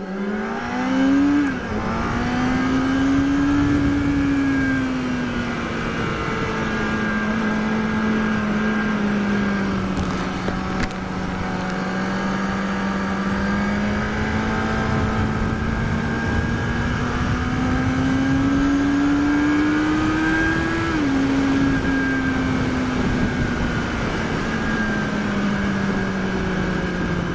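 Onboard sound of a 2006 Kawasaki ZX-6R 636's inline-four engine running under throttle: the pitch rises and falls slowly with the throttle. There are two sudden drops in pitch, one near the start and one about three-quarters through, as it shifts up.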